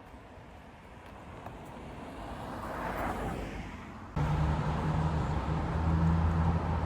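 A car passing on the road, its tyre and engine noise swelling and then fading. About four seconds in, a loud, steady low hum starts abruptly and holds.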